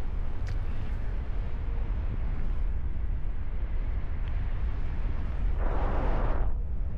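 Wind buffeting the microphone of a camera carried in flight on a paraglider, a steady low rumble, with a short louder rush of air a little before the end.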